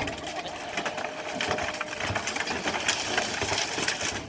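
A car body being crushed by heavy machinery: dense crackling and crunching of metal and breaking glass over a steady machine hum.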